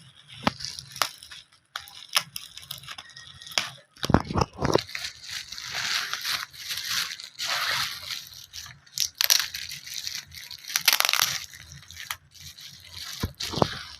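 Packaging being handled and opened: irregular crinkling, tearing and crunching of wrapping, with sharp clicks, loudest in bursts about four, nine and eleven seconds in.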